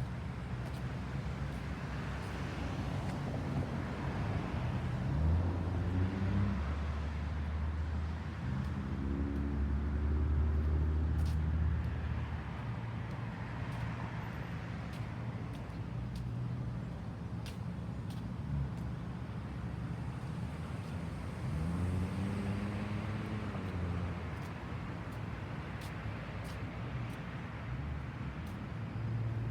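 Road traffic: vehicles passing in turn, their noise swelling and fading, with a low engine note that rises and then falls as each one goes by.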